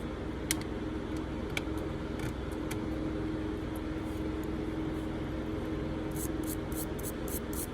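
Small brass brush scrubbing a tiny metal lighter part in quick scratchy strokes, several a second, starting about six seconds in. A few light clicks of small parts and tools come earlier, over a steady background hum.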